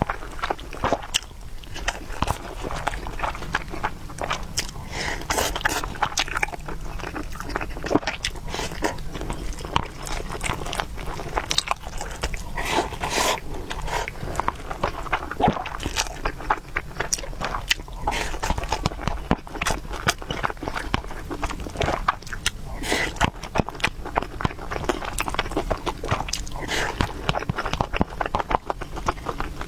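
Close-miked eating: steady chewing and biting, with many small wet clicks and smacks from the mouth.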